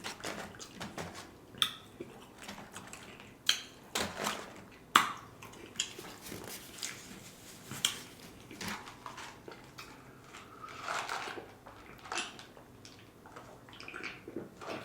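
A piece of fried food being broken apart and eaten: scattered soft crackles and clicks, a few sharper snaps, and chewing.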